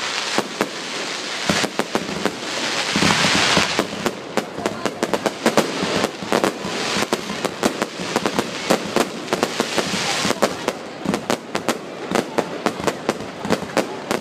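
Aerial fireworks going off in quick succession: a dense run of sharp bangs and crackling pops over a steady hiss, the hiss swelling about three seconds in and the pops coming fastest in the last few seconds.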